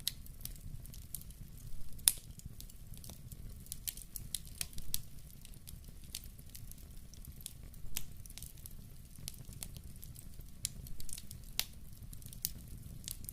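Fire in a fireplace crackling, with irregular sharp pops, a few louder ones, over a low steady rumble.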